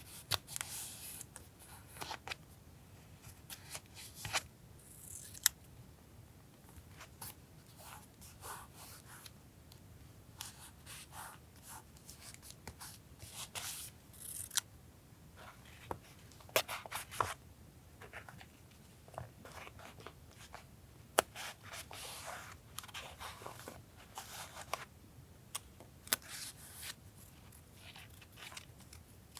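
Paper being handled and cut with scissors: irregular rustling and crinkling with sharp snips and taps.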